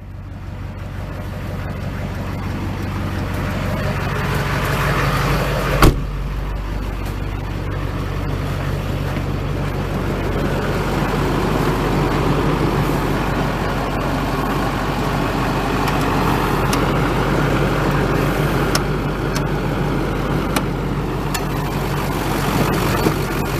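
The 6.6-litre Duramax turbo-diesel V8 of a 2005 Chevrolet Silverado 2500 HD idling steadily, with a single sharp clunk about six seconds in.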